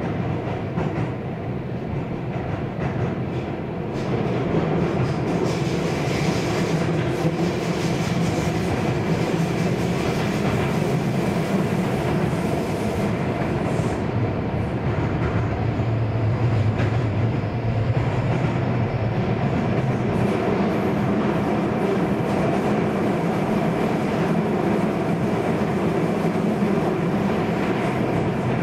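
Keio Series 5000 commuter train running between stations, heard from inside the passenger car: a steady rumble of wheels on rail with a low hum, getting louder about four seconds in and then holding steady.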